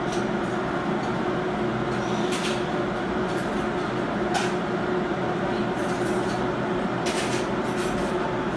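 Dixter 2807 pet blower-dryer running steadily: a constant blowing hum with one steady tone in it, and a few faint clicks over the top.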